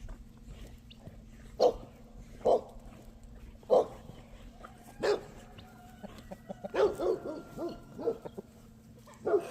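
A dog barking in short single barks about a second apart, then a quicker run of barks near the end.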